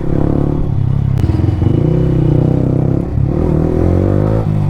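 Yamaha R15 V3's single-cylinder 155 cc engine through an Akrapovic exhaust with no dB killer, riding under throttle. The revs dip about a second in and again about three seconds in, then climb near the end.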